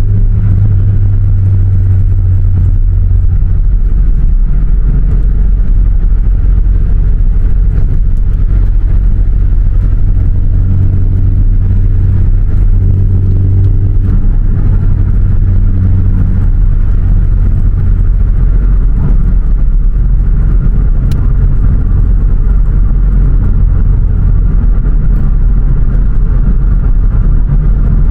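A car engine running steadily with a deep low hum that shifts slightly in pitch now and then.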